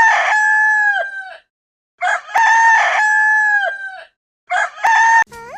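Rooster crowing cock-a-doodle-doo: two full crows of about two seconds each, every one ending in a long held note that drops away, then the start of a third crow that breaks off suddenly near the end.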